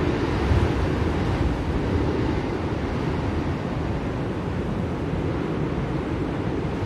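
Blizzard wind blowing steadily, a low rushing noise that swells slightly about half a second in.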